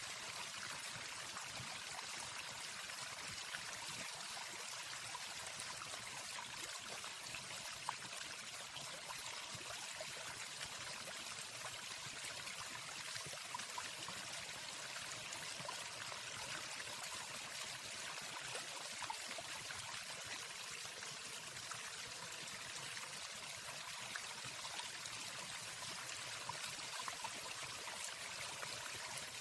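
Waterfall: steady rushing water, an even hiss that holds level throughout.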